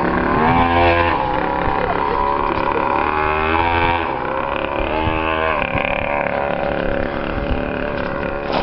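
Motorcycle engine revving up and back down about three times, then running at a steady speed for the last couple of seconds.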